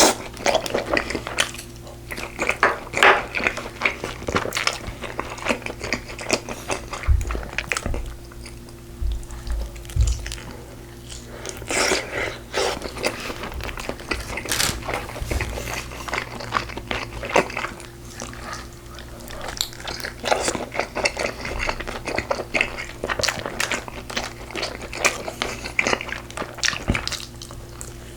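Close-miked eating of braised pork ribs: wet chewing, biting and smacking with irregular crunches, over a low steady hum.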